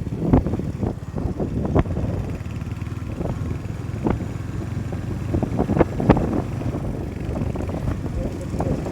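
Wind buffeting a phone's microphone on a moving motorcycle, over the low rumble of the ride, with scattered short knocks.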